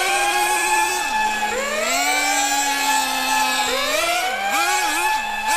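An engine revving up in three rising sweeps of pitch, like a vehicle accelerating through its gears. A second, steadier engine tone runs underneath and wavers up and down near the end.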